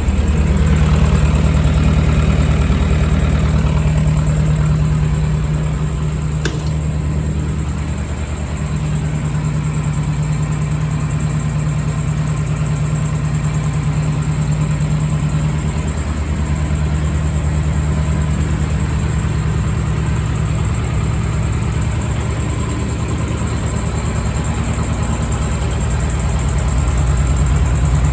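1978 Leyland 154 tractor engine running steadily, with the sound dipping slightly for a few seconds and a single sharp click about six seconds in.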